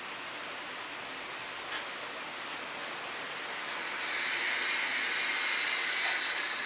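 H0 scale model trains running on the layout's track: a steady rolling hiss of wheels and motors that gets louder about four seconds in as a train comes closer, with a faint click from the rails near two seconds in.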